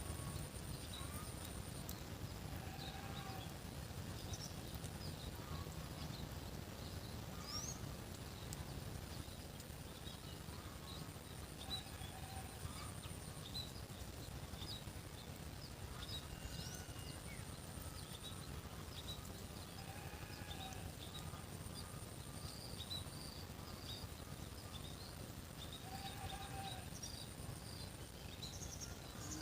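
Rural outdoor ambience: many small birds chirping over a steady high-pitched insect drone. A short lower animal call repeats every several seconds, with a low background rumble.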